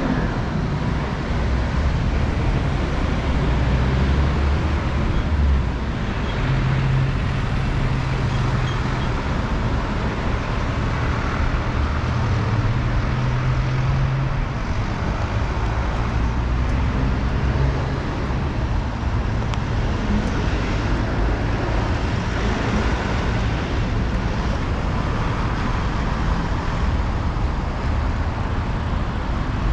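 City road traffic: a steady rumble of cars and engines, with a low engine hum from nearby vehicles that is strongest in the first half.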